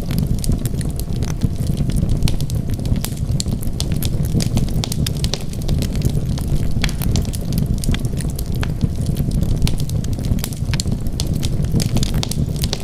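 Wood fire crackling in a fireplace: a steady low rumble of burning with many sharp pops and snaps scattered throughout.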